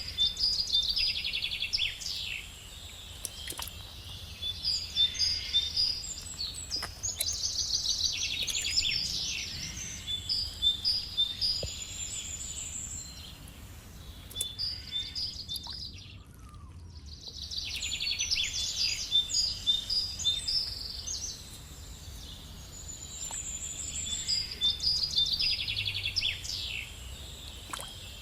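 A songbird singing high, trilling phrases that repeat every six to eight seconds.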